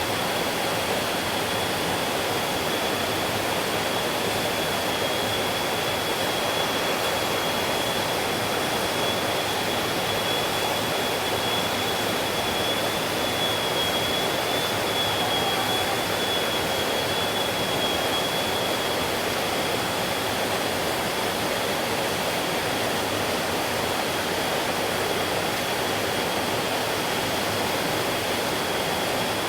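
Mountain stream flowing: a steady, unbroken rush of water, with a faint steady high-pitched tone running through it.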